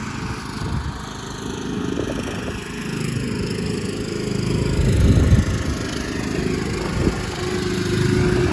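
Car engine idling as a low, uneven rumble, mixed with rustling and knocking close by, louder about five seconds in.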